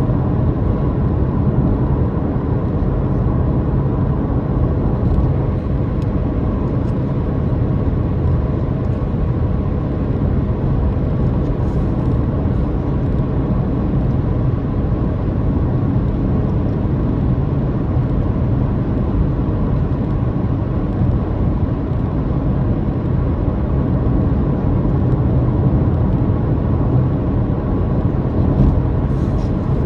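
Car driving at a steady speed: the engine drones evenly under a constant wash of road and tyre noise.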